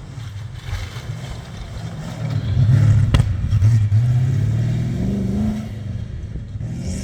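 Competition safari off-road racing vehicle's engine running, swelling to its loudest a couple of seconds in, then revving up with a rising pitch near the end. A single sharp knock about three seconds in.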